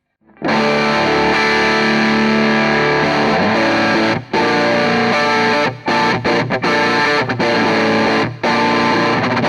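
Electric guitar played through an EarthQuaker Devices White Light overdrive pedal with the gain turned up and the comp switch in its minus position, giving a distorted tone. A chord rings out for about three seconds, then a riff follows with a few short stops.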